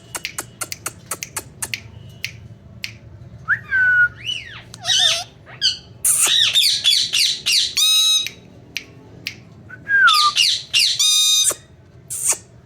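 Indian ringneck parakeet calling: a run of sharp clicks, then gliding whistles and harsh squawks, with a buzzy call in the middle and another near the end.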